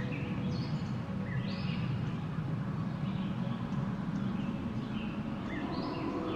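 Steady low wind noise, with birds chirping over it in short calls every second or so.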